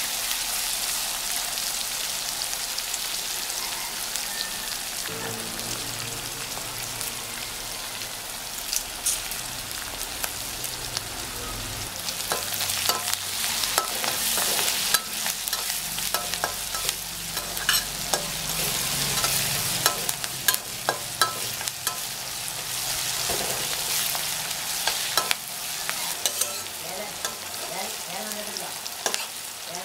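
Sliced onions and green chillies sizzling in hot oil in a metal kadai, stirred with a metal spatula. From about eight seconds in, the spatula scrapes and taps against the pan again and again over the steady sizzle.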